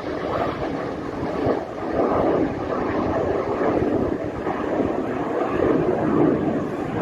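Jet aircraft noise mixed with heavy gusty wind buffeting the microphone, a rough rumble that swells and fades unevenly.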